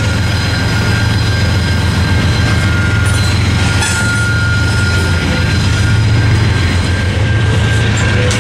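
Freight cars of a Norfolk Southern mixed freight rolling past at a railroad crossing: a steady, loud rumble of steel wheels on rail, with a few sharper clanks about three seconds in. The crossing's active Safetran Type 3 electronic bell is ringing over it.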